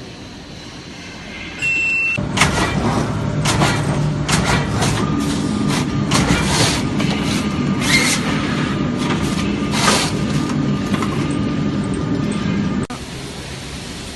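A Jin Gou CS25 cutting machine running, with a steady low hum and a series of sharp hissing bursts. It starts suddenly about two seconds in and cuts off abruptly near the end.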